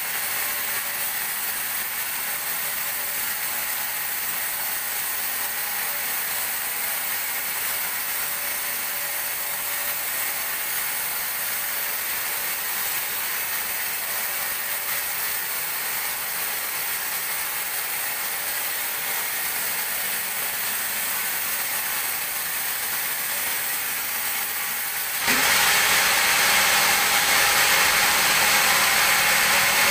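Sawmill log band saw running with a steady hiss. About 25 seconds in, the sound abruptly jumps louder and fuller, with a faint low hum.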